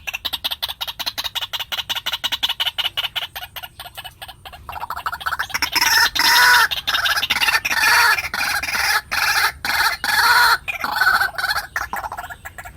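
White-breasted waterhen calling: a fast run of short clucking notes, then louder, harsher repeated calls from about five seconds in.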